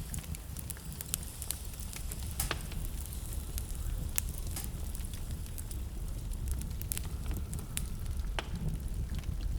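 Wood fire burning in a fireplace, crackling with sharp, irregular pops, over a steady low rumble of blizzard wind.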